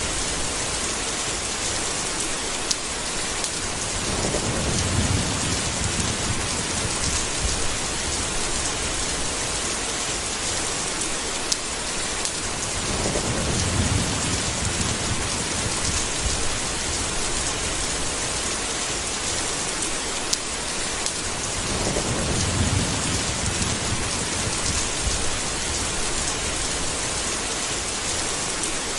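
Steady heavy rain falling, with a low rumble of thunder rolling in three times, about nine seconds apart.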